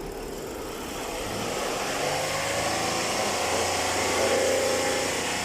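Ford Taurus V6 engine running, getting louder over the first few seconds; the engine has a noisy timing chain that the mechanic says needs replacing.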